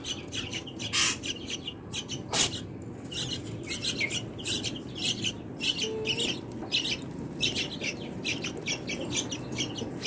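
Nestling yellow-vented bulbuls (trucuk) begging, a rapid run of shrill chirps many times a second, the calls of hungry chicks at feeding. Two brief knocks from handling come in the first few seconds.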